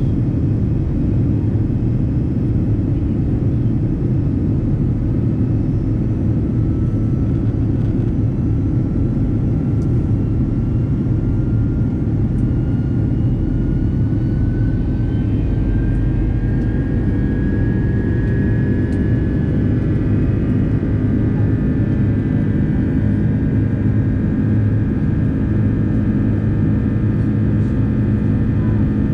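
Airbus A330-300 jet airliner's engines running loud, a deep rumble under a thin whine that climbs steadily in pitch through the middle and then holds, as the engines spool up for the take-off run.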